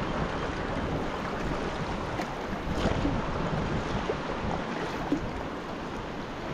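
Sea water splashing and lapping around a sea kayak, with some wind on the microphone.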